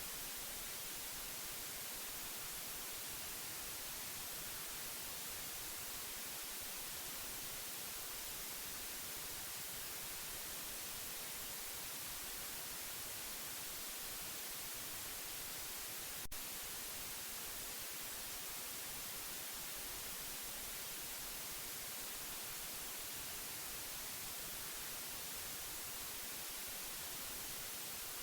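Steady white noise hiss, strongest in the treble, with a single brief click a little past halfway.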